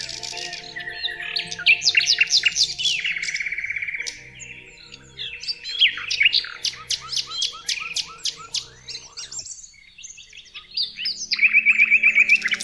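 Songbirds chirping and calling in quick, overlapping phrases, with rapid trills and short sweeping whistles; a fast run of repeated notes near the end.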